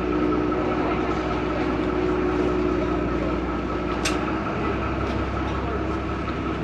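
Vaporetto water bus engine running steadily under way, a continuous low rumble with a humming tone that drops out a little past halfway. A single sharp click about four seconds in.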